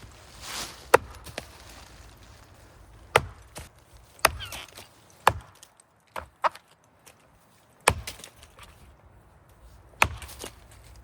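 Axe blows chopping into a big maple trunk to build an undercut: about eight sharp, separate strikes at uneven intervals, one to two seconds apart.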